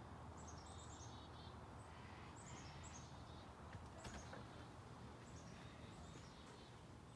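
Faint songbird song: repeated phrases of quick descending chirps, over a low steady hum, with a single faint click about four seconds in.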